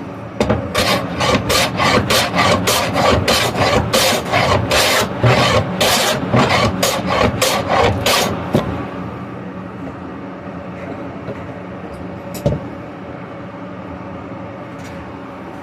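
Riga pine being worked by hand with an abrasive tool, in quick back-and-forth rubbing strokes, about two to three a second, that stop a little past halfway. A steady low hum runs underneath, and there is a single knock near the end.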